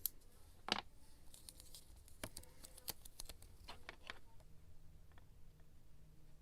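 Light clicks and taps of scrapbooking supplies being handled: a sharp click at the start, a duller knock under a second in, then a scattered run of small clicks over the next few seconds.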